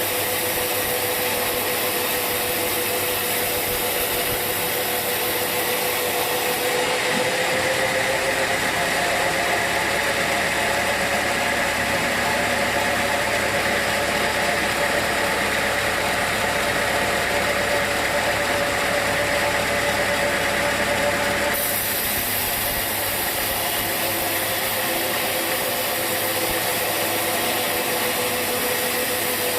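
Sawmill machinery running steadily with a constant hum. Its pitch rises a little about seven seconds in and eases back down near the end.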